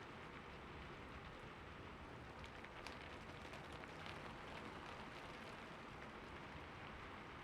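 Rain falling steadily, a quiet even hiss with single drops ticking sharply now and then, one clearer tick about three seconds in.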